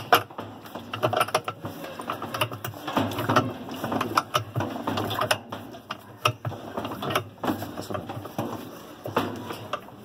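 Irregular metallic clicking and rattling, ratchet-like, from hand tools and metal parts being worked during dismantling of a washing machine's basket assembly.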